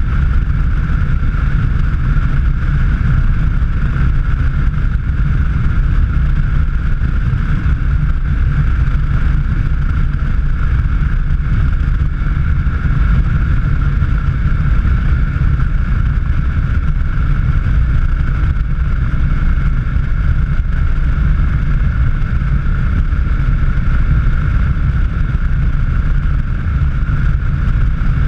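A car driving steadily at speed: a constant low engine and road rumble with a steady mid-pitched hum, and wind buffeting the microphone.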